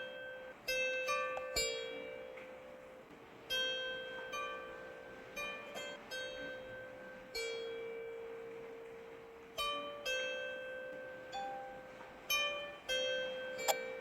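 Slow, sparse plucked-string notes, each ringing and fading away, over a steady hiss of rain.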